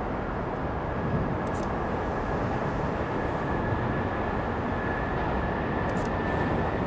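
Electric train approaching along a steel truss railway bridge: a steady rumble of wheels on rails that grows slowly louder, with a thin steady high whine above it.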